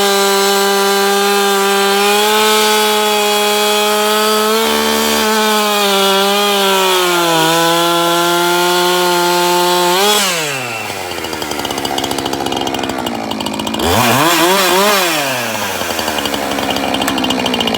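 Husqvarna 365 two-stroke chainsaw held at high revs cutting wood for about ten seconds, then falling to idle. It is blipped up once and back down near the end, then idles again.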